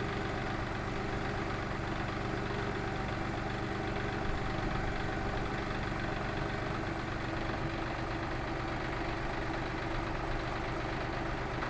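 A steady engine hum at idle, unchanging throughout.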